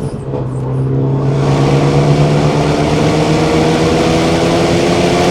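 Renault Mégane III RS's 2-litre turbocharged four-cylinder (F4RT) under hard acceleration, revs climbing steadily in one gear and getting louder from about a second in.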